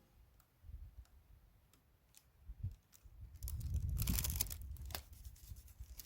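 Faint handling noises: scattered small clicks, then a louder rustling, tearing noise for about a second and a half, starting about three and a half seconds in, over a low rumble.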